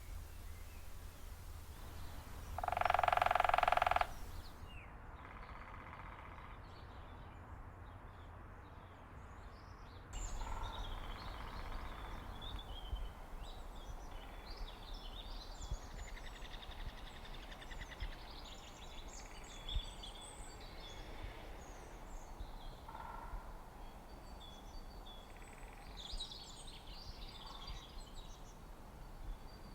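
Birds calling and chirping over a low outdoor background. A loud, steady pitched call lasts about a second about three seconds in, then many short high chirps follow from about ten seconds on.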